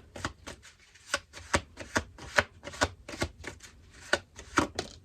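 Deck of tarot cards being shuffled by hand: quick, irregular slaps and snaps of the cards, several a second, as a clarifier card is sought.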